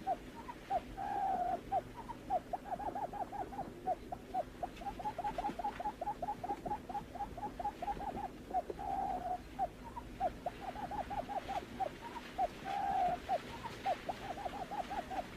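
Barred buttonquail call used as a trapping lure: quick runs of short, low, downward-sliding hoots, about four to five a second, broken every few seconds by a longer drawn-out note, with a faint steady hum underneath.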